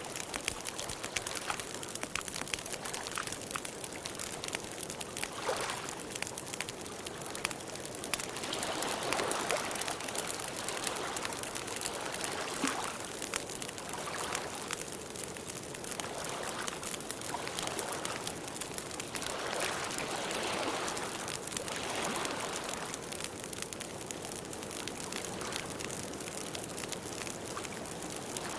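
Water trickling in a small stream: a steady rush with splashing, gurgling swells that come and go every second or two.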